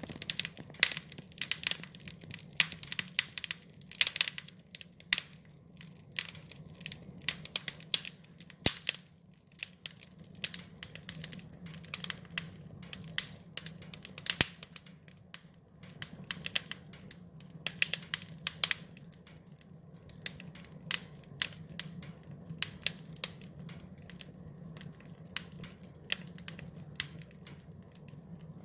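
Wood fire crackling: irregular sharp pops and snaps, some much louder than others, over a steady low hum. The loud pops thin out in the last third.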